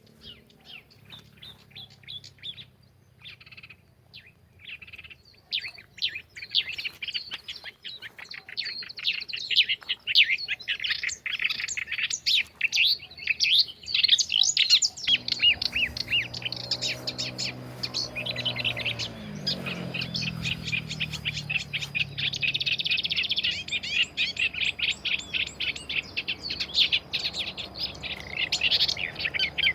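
Many small songbirds chirping and twittering rapidly in a dense chorus, scattered at first and filling in after about five seconds. A faint low hum sits underneath for part of it.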